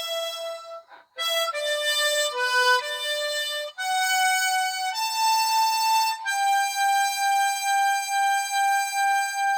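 A solo harmonica plays a melody. It breaks off briefly about a second in, runs through several short notes, then settles into a long held note from about six seconds on, wavering in loudness a few times a second.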